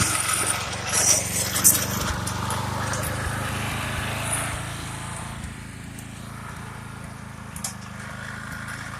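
Murray riding lawn mower's small engine running steadily, slowly growing fainter, with a few light clicks and knocks.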